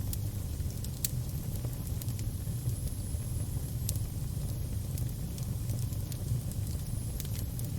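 Fire crackling: a steady low rumble with scattered sharp pops, the loudest about a second in and near four seconds.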